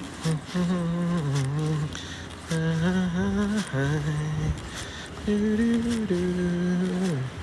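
A man humming a tune with long held notes, in three phrases with short pauses between them.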